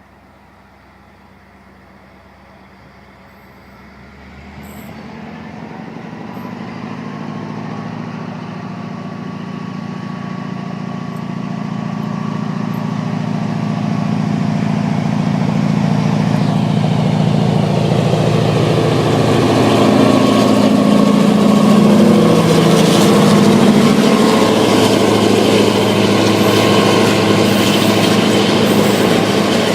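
HŽ series 2062 diesel locomotive approaching at the head of a freight train, its engine drone growing steadily louder over the whole stretch until it is close by.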